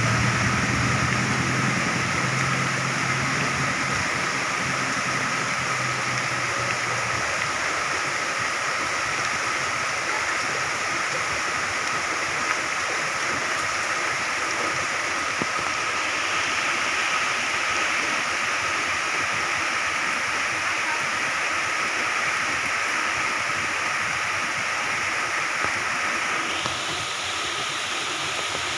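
Moderate to heavy rain falling steadily, a constant rushing hiss of water. A low hum is under it at first and fades out about seven seconds in.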